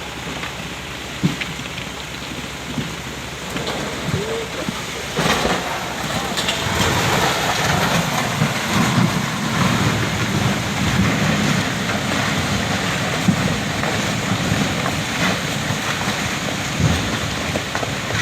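Landslide rumbling: earth and debris sliding down the slope as a steady rushing roar with a low rumble, which swells about six seconds in and then holds, with a few scattered knocks.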